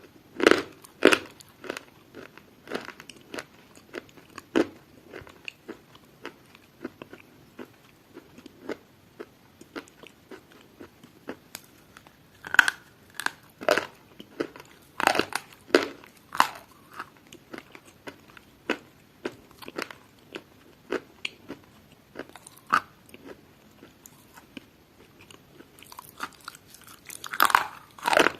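Crunchy food being bitten and chewed: irregular sharp crunches that come in clusters, with quieter stretches of softer chewing between them.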